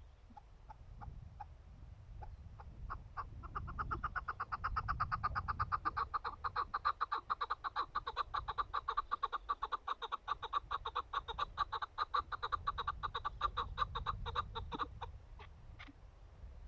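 Chukar partridge calling: a run of clucking notes that starts slowly and picks up into a rapid steady series for about ten seconds, then breaks off, leaving a few single notes.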